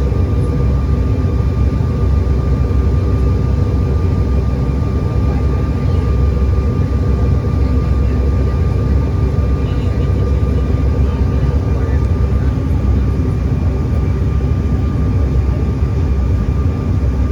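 Steady jet engine and airflow noise inside an airliner cabin: a loud, even low rumble with a thin steady whine above it.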